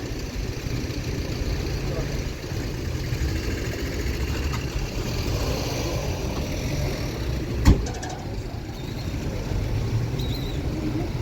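Steady low rumble of a running vehicle with indistinct voices, and one sharp knock a little past halfway through.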